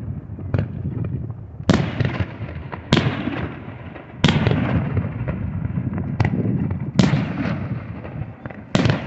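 Aerial fireworks shells bursting. Five loud booms come about one to three seconds apart, with fainter pops between them, and each boom trails off in a low, rolling echo.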